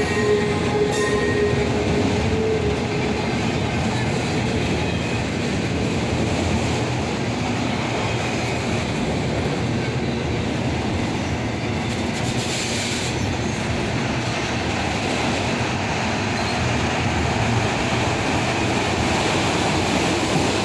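Cars of an intermodal freight train rolling past steadily with a continuous wheel-on-rail rumble. Thin squealing tones sound for the first couple of seconds and then fade.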